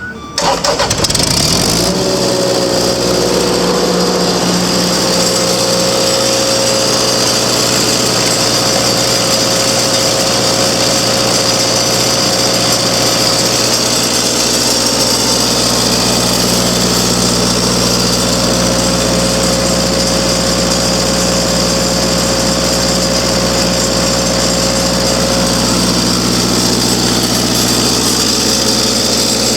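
Kubota engine of an engine-driven welder cranking and catching in the first second or so, then running steadily at a constant speed.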